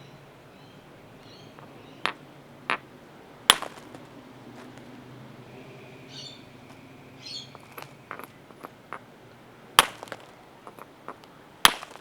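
A piece of raw stone struck hard against a stone anvil to knock off flakes: sharp stone-on-stone clacks, three in the first half and two loud ones near the end, with lighter clicks of small pieces in between.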